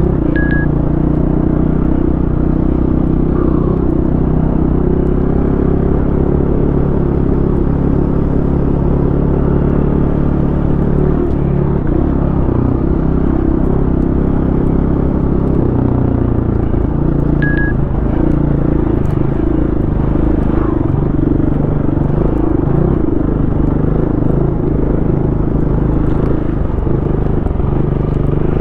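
Single-cylinder four-stroke enduro dirt bike engine running steadily under riding throttle, its pitch shifting a little now and then as the rider works the throttle and gears.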